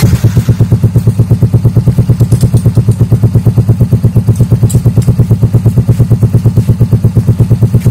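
Yamaha Mio i 125 scooter's single-cylinder engine idling steadily through an Akrapovic muffler with its silencer insert removed, heard right at the muffler outlet: a loud exhaust note of rapid, even pulses.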